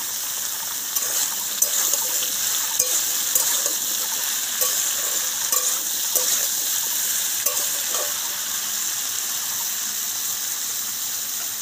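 Potato and raw green banana pieces frying in mustard oil in a kadai, a steady sizzle. A spatula knocks and scrapes against the pan in a string of sharp clicks as the pieces are stirred, from about a second in until about eight seconds.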